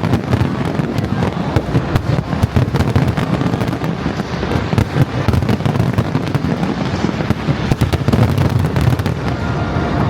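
Aerial fireworks display at full intensity: a rapid, continuous barrage of overlapping bangs and crackles over a steady low rumble of booms.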